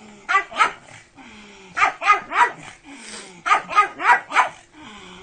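Pug barking in quick runs of sharp, high-pitched yaps, two to four at a time, about nine barks in all.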